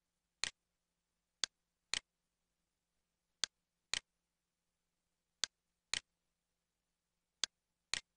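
Computer mouse clicks in evenly spaced pairs, the two clicks of each pair about half a second apart, a new pair every two seconds, five pairs in all.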